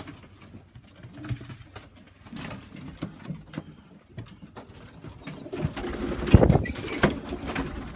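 Pigeons cooing in a loft, louder and busier in the second half, with a few short knocks.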